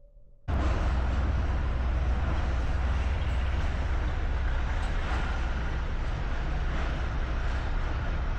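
Steady vehicle running noise, a low rumble with hiss, starting abruptly about half a second in.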